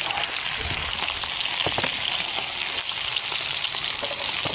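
Lamb chops and garlic cloves sizzling in a hot frying pan: a steady frying hiss with scattered irregular crackles.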